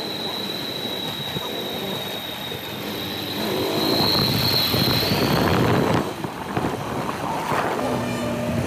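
Motorcycle running on the move, with wind noise on the microphone; it gets louder for a few seconds in the middle. A thin steady high whine fades out about six seconds in.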